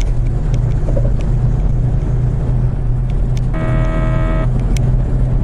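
Steady low drone of a truck driving at road speed, heard inside the cab. A little after the middle, a steady tone with several overtones sounds for about a second.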